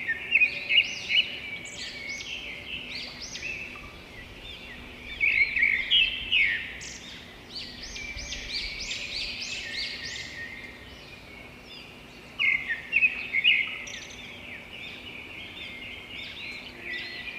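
Small birds chirping and twittering, several calls overlapping, with louder clusters of rapid chirps at the start, about five seconds in and about twelve seconds in.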